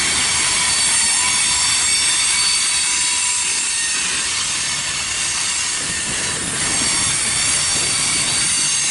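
Freight train of covered hopper cars rolling past, wheels squealing in several steady high-pitched tones over the rumble and rattle of the cars.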